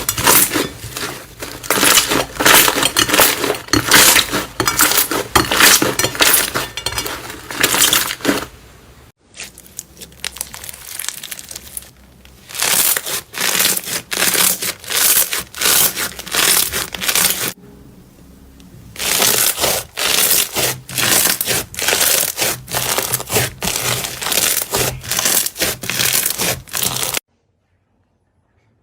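Slime being squeezed and kneaded by hand, with dense crackling and popping. The sound breaks off twice between clips, and again near the end.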